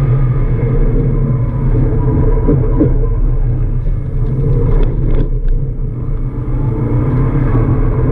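Subaru Impreza WRX's turbocharged flat-four engine pulling under throttle, heard from inside the cabin while the car corners on track. The engine note dips briefly about five seconds in, then picks up again.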